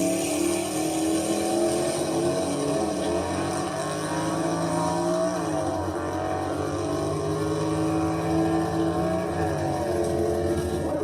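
Car engine running steadily with a few small rises and falls in pitch, about halfway through and again near the end.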